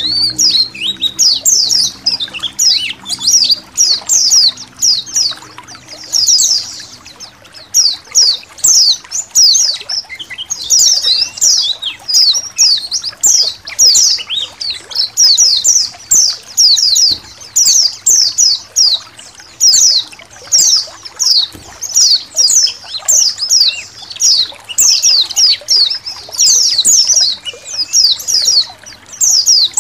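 A flock of white-eyes (pleci) chirping together: many rapid, high, falling twitters overlapping without a break, over a faint trickle of running water.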